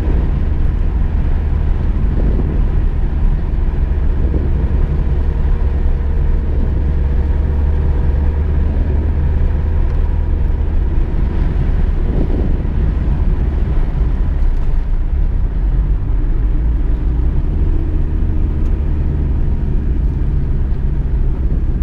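Inside a VW Golf II driving at steady speed: a continuous low engine drone and road rumble through the cabin.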